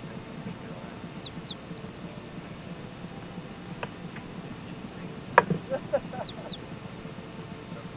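A songbird singing the same short, high phrase of chirps and falling whistles twice, about five seconds apart. A sharp knock sounds near the start of the second phrase.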